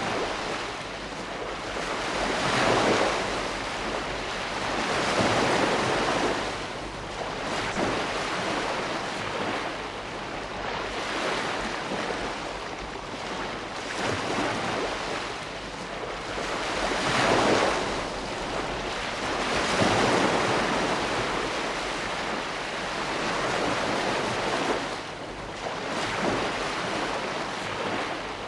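Ocean waves breaking and washing ashore, a steady surf hiss that swells louder every few seconds as each wave comes in.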